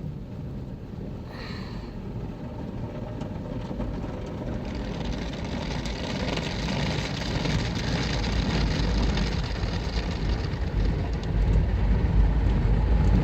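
PDQ Tandem automatic car wash machinery running, heard from inside the car: a low rumble with a hissing, scrubbing noise that builds from about five seconds in, growing steadily louder as the wash equipment works closer.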